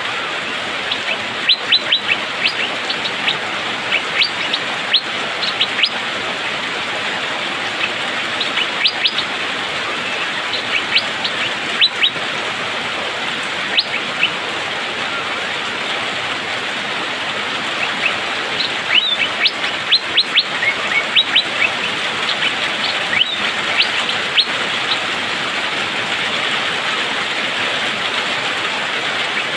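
Asian fairy-bluebird (cucak biru) singing in fast, tightly packed runs of sharp, quick chip notes, in several bursts over a steady hiss.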